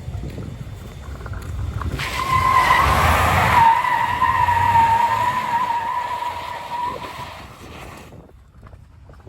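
Truck doing a burnout: the engine runs under a wavering, high-pitched tire squeal that starts about two seconds in, is loudest for a few seconds, and fades away near the end.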